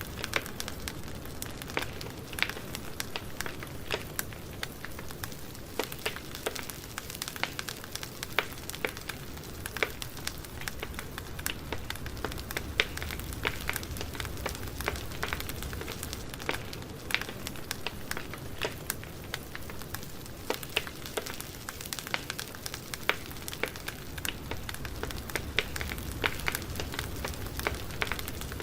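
Campfire burning steadily, a low rumble and hiss with frequent sharp crackles and pops from the burning wood.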